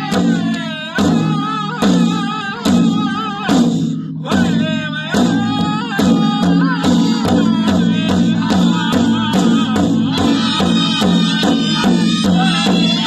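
Powwow drum group singing high, wavering voices over a hand drum struck in a steady beat. The beat picks up to about three strokes a second from about halfway through.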